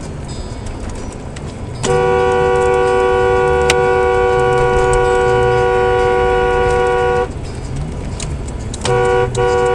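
Two-note car horn held down in one long blast of about five seconds, then sounded again near the end with a brief break, honked at a driver who has just hit the car. Engine and road rumble run underneath.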